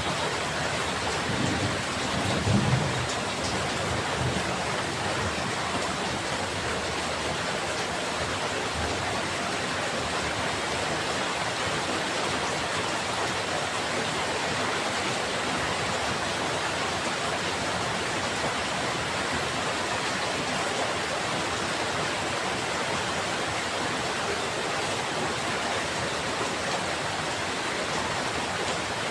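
Steady rain falling, with a brief low rumble of thunder about two seconds in.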